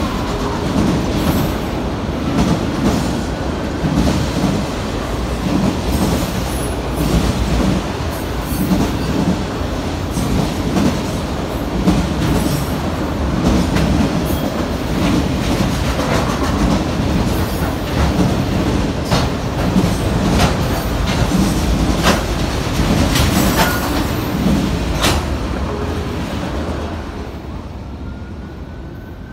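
Freight train of autorack cars rolling through the crossing: a steady low rumble with the rhythmic clickety-clack of wheels over the rail joints and occasional sharp clanks. The rumble fades near the end as the last car clears.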